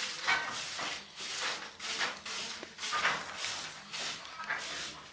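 A broom sweeping a floor: repeated hissing brushing strokes, roughly two a second in an uneven rhythm.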